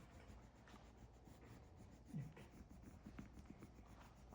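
Near silence with faint, irregular scratchy rubbing sounds.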